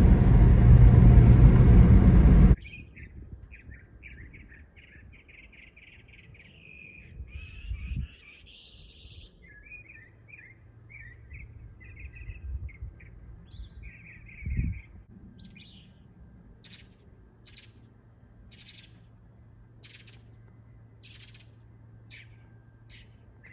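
Small songbirds chirping around a backyard bird feeder: quick runs of twittering chirps, then a series of short, sharp calls about one a second. A loud, steady rush of noise fills the first couple of seconds and cuts off suddenly.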